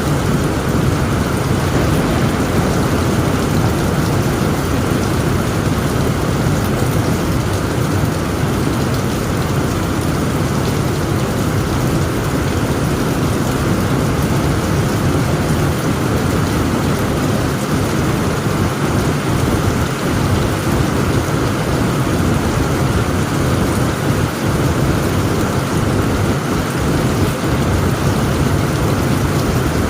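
Heavy rain falling steadily on a tent roof, with a low, continuous thunder rumble underneath. The sound holds steady, with no sharp claps.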